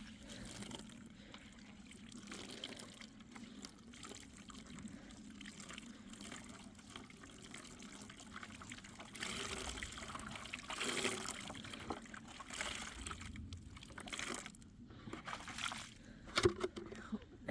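Water trickling and pouring unevenly, strongest about two-thirds of the way through, with a few sharp knocks near the end.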